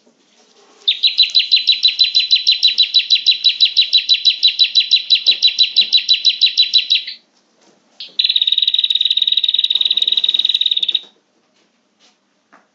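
Prinia (prenjak) calling, as played for luring birds: a long, rapid trill of sharp high notes, about eight a second, then after a short break a faster, buzzier trill.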